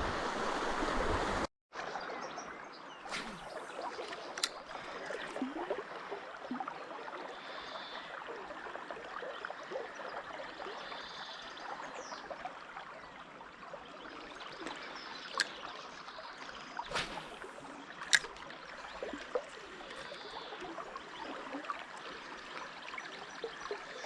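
River water running steadily over rocks, a constant babble, with a few sharp clicks scattered through. The sound cuts out completely for a moment about a second and a half in.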